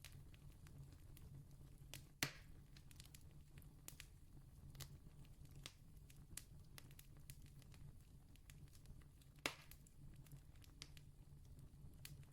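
Campfire crackling faintly, with scattered small ticks and two louder sharp pops about seven seconds apart, over a low steady hum.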